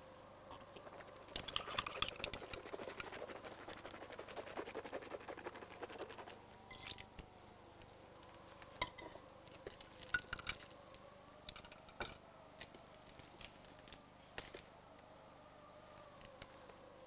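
Handling noises: a dense run of scratching and small clicks for the first few seconds, then scattered single clicks and taps, over a faint wavering hum.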